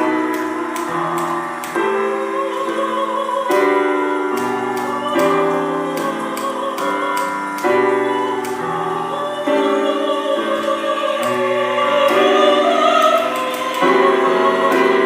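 A soprano sings a sustained, wavering operatic line with vibrato over changing piano chords. The voice climbs higher about twelve seconds in.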